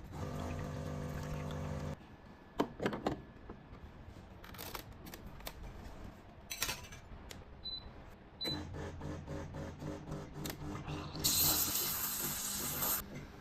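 HiBREW H7B espresso machine's pump humming steadily during extraction. The hum stops after about two seconds and starts again about eight and a half seconds in, with a few clicks between. A loud burst of hissing comes about eleven seconds in and lasts about two seconds.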